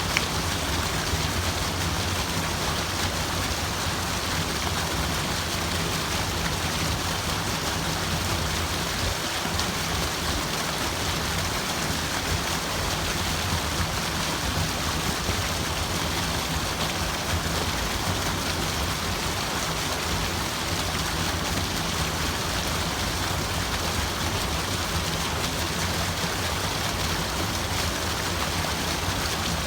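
Running water making a steady, even rushing, with no change or separate splashes.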